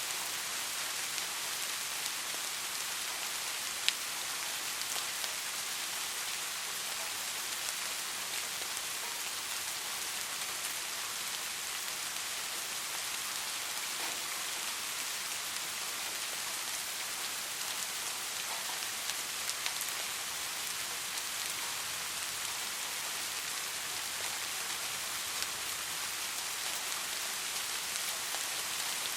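Steady rain falling on a surface, an even hiss with scattered drop ticks and one sharper tick about four seconds in.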